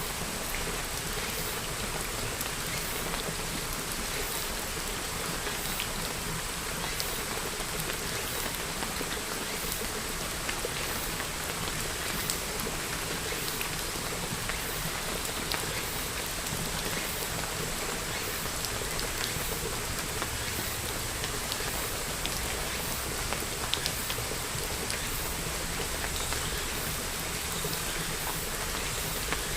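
Steady rain falling on a surface, with individual drops ticking here and there.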